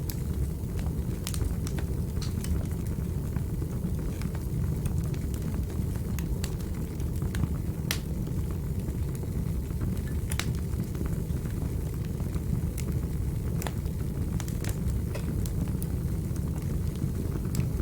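Wood fire burning in a fireplace: a steady low rumble with scattered sharp crackles and pops from the burning logs, a few louder snaps spread through it.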